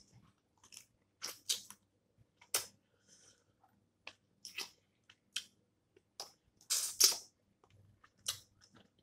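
Close-up eating of snow crab legs: irregular sharp cracks and snaps of shell with chewing, the loudest cluster about seven seconds in.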